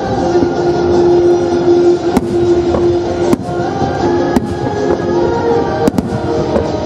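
Aerial fireworks shells bursting with sharp bangs, about five of them, the last two close together near the end, over steady music.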